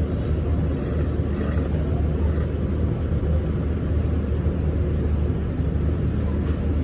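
Ramen noodles slurped in four short hissy pulls in the first couple of seconds, over a steady low rumble.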